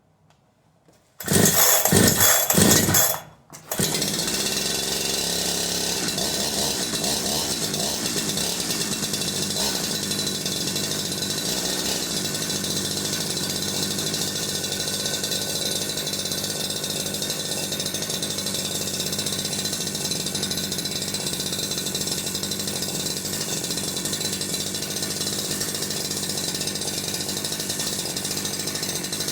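Freshly built Holzfforma G372XP two-stroke chainsaw starting on the pull: it fires about a second in and runs loud for about two seconds. It dips for a moment, then catches again and keeps running steadily.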